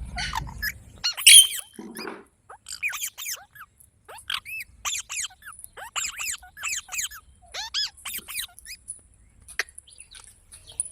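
Green parrot calling in a quick run of short, shrill chirps and squawks, several a second, some gliding up and some down in pitch, with a low rumble in the first second.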